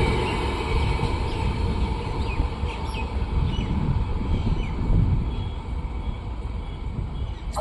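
Rumble of an Indian express train fading away as it recedes after passing through, with small birds chirping over it from about a second and a half in.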